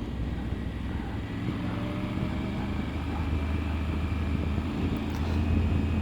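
Triumph Tiger 900 GT Pro's three-cylinder engine running on the road, a steady low drone that slowly grows louder, with wind noise over it.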